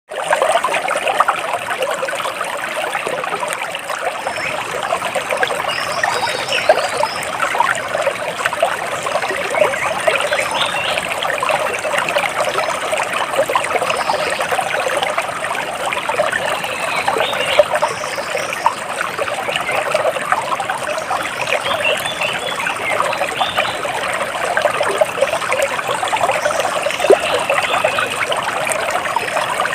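Water trickling and splashing steadily, like a small stream, with faint high bird chirps now and then.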